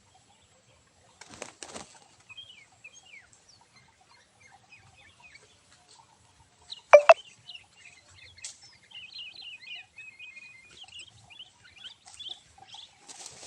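Small birds chirping in quick, short calls, with a burst of wing fluttering about a second and a half in and a single loud, sharp sound near the middle: a wild bird scuffling with a tethered decoy bird.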